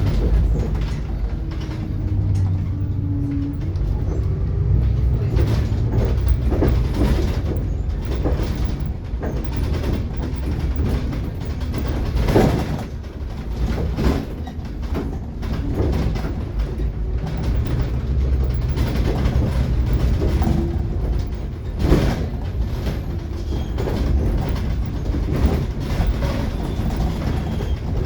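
Ride noise inside a Scania K360IB diesel city bus on the move: a steady low engine and road rumble with body rattles. Two sharp knocks stand out, one about halfway through and one about three quarters of the way in.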